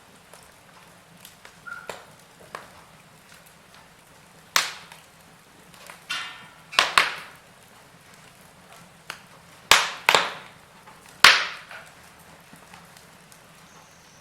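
Wood fire in a fireplace crackling, with about half a dozen loud, sharp pops and snaps between about four and eleven seconds in, over a faint steady hiss.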